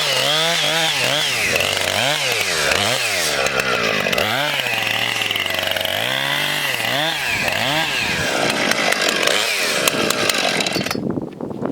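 Gas chainsaw carving into a pumpkin, its two-stroke engine revved up and down over and over with short steady stretches between. It stops about eleven seconds in.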